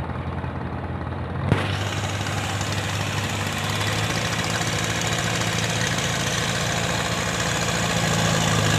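Diesel engine of a sand-suction pump running steadily. About one and a half seconds in there is a click, after which its sound becomes fuller and noisier and slowly grows louder.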